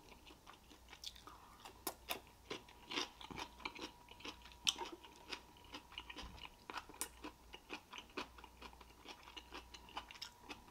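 Close-miked chewing of a person eating, with irregular small wet clicks and crunches, over a faint steady high tone.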